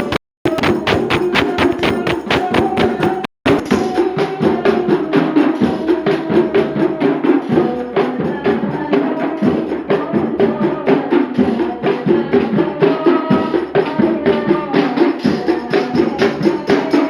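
Hand-struck frame drums and jingles beating a fast, steady sholawat rhythm, the sound cutting out briefly twice in the first few seconds.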